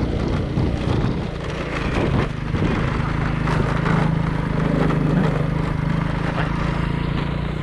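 A vehicle engine running steadily with a low hum as it drives along, with wind and road noise.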